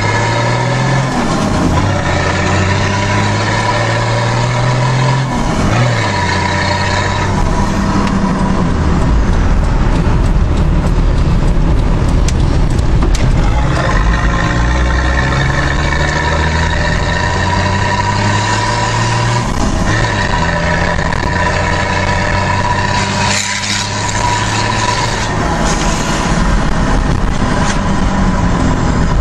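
Nissan Patrol engine with a straight-pipe exhaust running loud under load. Its pitch climbs steadily and then drops back several times.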